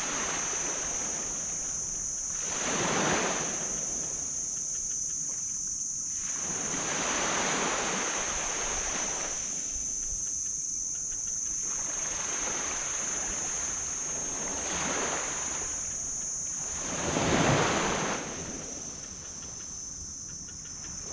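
Small tropical waves breaking and washing up a sand beach, each surge swelling and fading over a few seconds, with the loudest surge about three-quarters of the way through.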